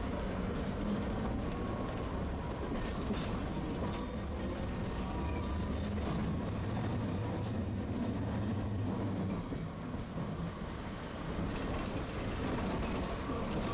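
Tosaden streetcar running along its street track: a steady low rumble of wheels and motors, with thin high-pitched tones between about two and five seconds in.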